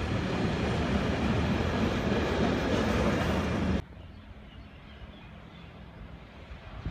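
Container freight train wagons rolling past close by: a loud, steady rushing rumble of wheels on rail that cuts off abruptly about four seconds in, leaving a much quieter low hum.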